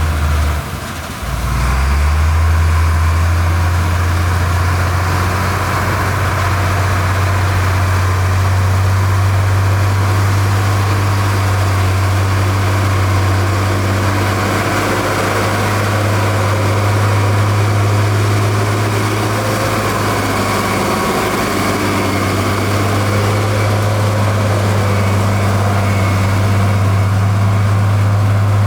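Heavy diesel engine of construction machinery running steadily with a deep drone, briefly dropping in level about a second in before carrying on.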